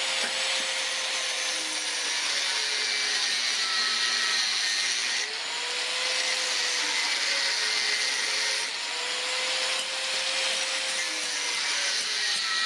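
A motor-driven power tool running steadily with a dense hiss and a whine that drifts in pitch, changing about a third and two-thirds of the way through.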